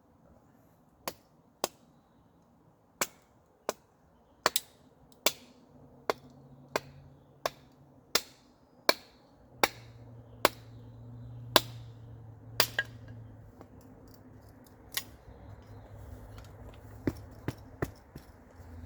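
Sharp chopping strikes on wood, about twenty in all, one roughly every 0.7 s and then sparser near the end: wood being split into kindling.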